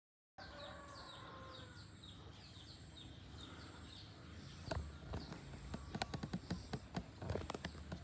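Faint rural outdoor ambience. A bird gives a quick series of short falling chirps over a steady high insect drone, then irregular clicks and knocks come in from about five seconds in.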